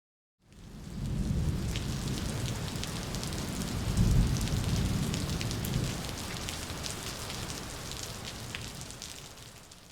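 Rain falling steadily, with low rolls of thunder swelling about a second in and again around four seconds in. It fades in at the start and fades out near the end.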